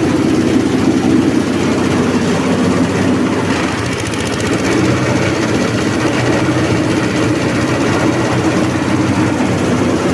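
SM-30 multifunction chopper-shredder machine running with a steady, loud mechanical drone; it dips slightly about four seconds in.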